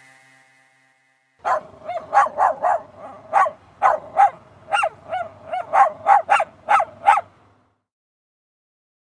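A dog giving a quick run of about fifteen short, high-pitched barks over some six seconds.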